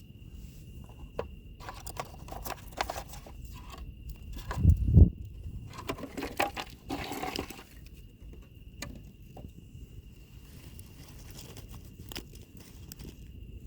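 Wood fire crackling and popping in irregular bursts, busiest in the first half, with one loud low thump about five seconds in. A steady high insect trill runs underneath.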